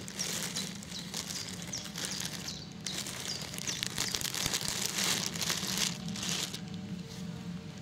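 Packaging crinkling and rustling as a plush toy is unwrapped by hand, in quick irregular crackles that stop near the end, over a low steady hum.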